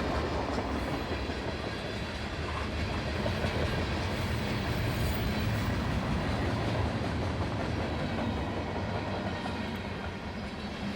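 CSX freight train's cars rolling past on the rails: a steady low rumble of wheels on track with no break.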